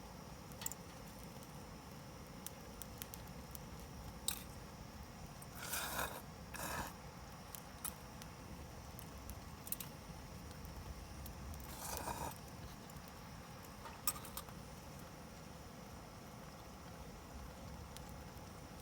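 Wood campfire burning quietly, with a few sharp, isolated crackles and short rustling scrapes about six and twelve seconds in.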